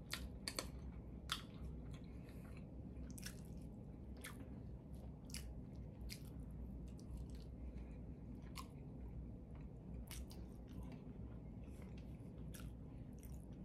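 Close-miked chewing of steak fries, with irregular sharp wet mouth clicks and smacks.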